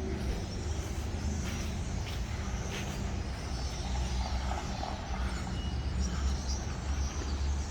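Steady low rumble of road traffic, with a few faint, scattered high chirps from a large flock of birds roosting in the trees.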